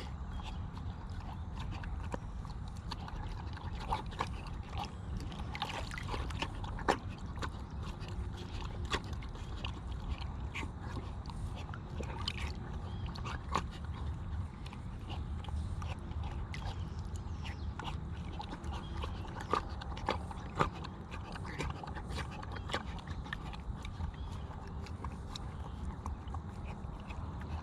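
A dog lapping water from a waterer, heard as scattered, irregular clicks over a steady low rumble.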